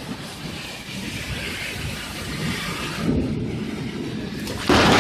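Steady rush of rain and wind during a thunderstorm, then near the end a sudden, very loud crack of thunder from a close lightning strike.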